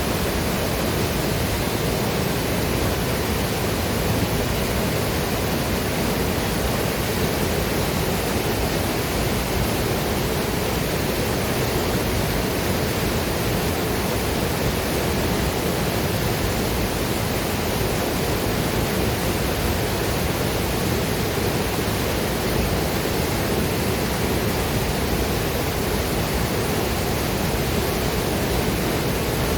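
Waterfall and river water rushing steadily, an even, unbroken noise of falling water.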